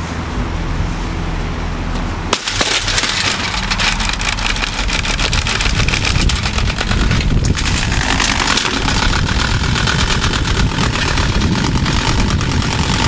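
Holmes HBF2002A box fan running with a steady motor hum. About two seconds in, its spinning blades start hitting an obstruction, making a fast, continuous clatter of strikes that keeps on and is the loudest thing heard.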